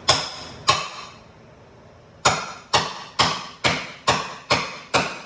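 Hammer blows ringing on metal: two strikes at the start, then after a short pause a steady run of seven at about two a second.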